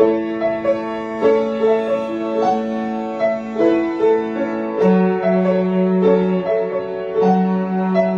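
Acoustic piano playing a flowing broken-chord accompaniment, a steady stream of notes over held bass notes.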